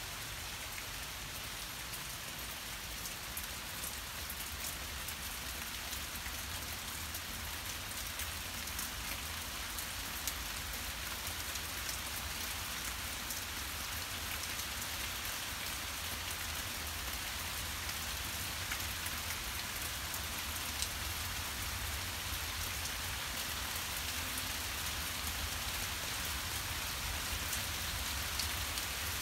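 Rain from a severe thunderstorm falling steadily as an even hiss, with scattered sharper drop ticks, slowly growing a little louder.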